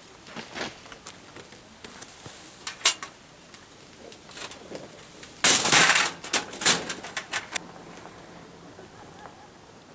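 Scattered clicks and knocks of objects being handled, with a louder noisy burst lasting under a second about halfway through, followed by a quick run of further clicks.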